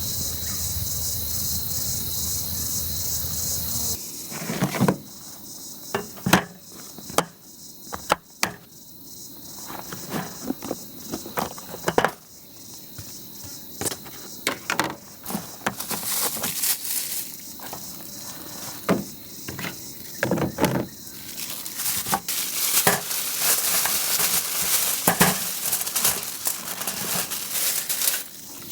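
Wood campfire crackling, with sharp scattered pops that come thicker near the end. Crickets chirp steadily for the first few seconds.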